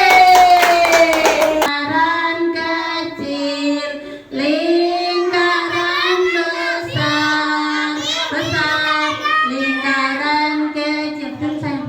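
Young children singing a song together, holding each note for about a second, with a woman's voice joining in. Before the singing starts, about two seconds in, a short falling tone with rapid clicks stops suddenly.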